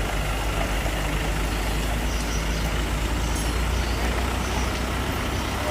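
Diesel engine of a Hino concrete mixer truck running at a steady low hum.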